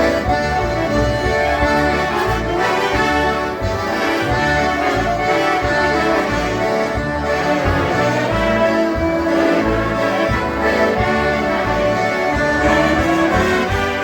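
Concertinas playing a lively polka with a steady bass beat underneath.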